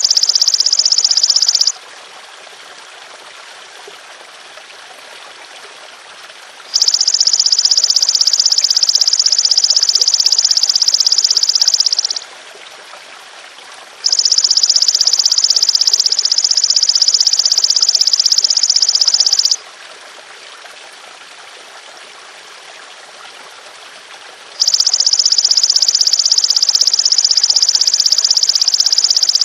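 Belalang emas (golden grasshopper) calling in long, steady high-pitched buzzing trills. A bout ends about two seconds in, and three more of about five seconds each follow with pauses between. Trickling water runs underneath throughout.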